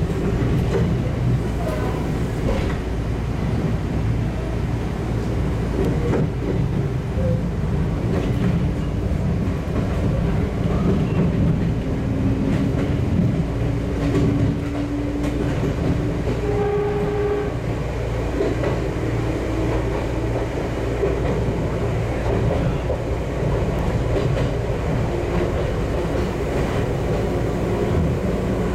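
Inside the cab of an electric passenger train running along the track: a steady rumble of wheels on rails with faint rail-joint clicks, and a few short whining tones around the middle.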